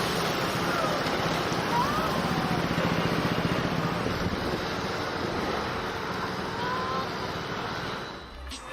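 Steady rushing noise with a low steady hum underneath, typical of a moving vehicle's wind and road noise, with a few faint short whistles; it fades out just before the end.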